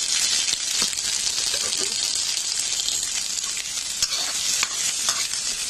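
Chopped green beans, freshly added to hot oil in a kadhai, sizzling steadily, with occasional clicks and scrapes of a metal spoon stirring them against the pan.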